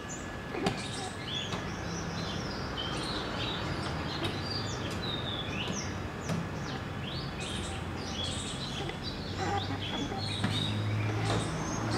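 Small birds chirping, many short rising and falling calls, over steady outdoor background noise. A low hum grows louder about nine and a half seconds in.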